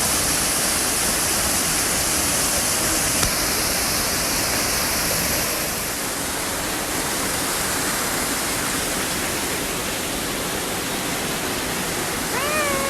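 Steady rush of falling water from a rainforest waterfall, an even roar with no breaks. Near the end a short pitched tone comes in, gliding up and then holding.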